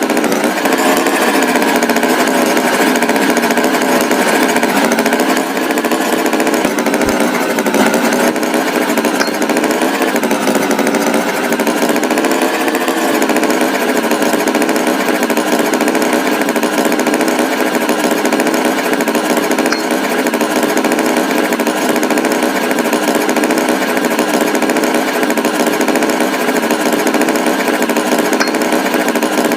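Tractor engine sound, a loud steady buzzing drone that wavers slightly in pitch.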